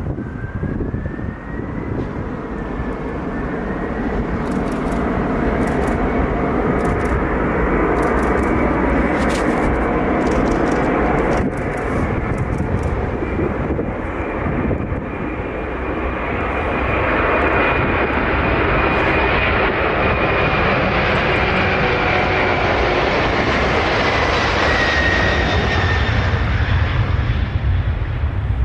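Three-engined jet airliner's engines running loud and steady, with a high whine that falls in pitch about three-quarters of the way through as the aircraft goes past.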